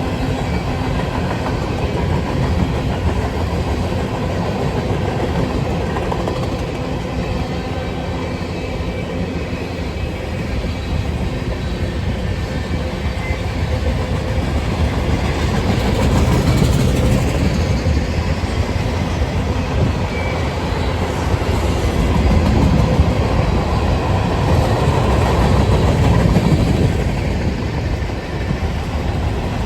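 CSX freight train's cars rolling past at speed, a steady rumble with wheel-on-rail clickety-clack. It swells louder twice in the second half.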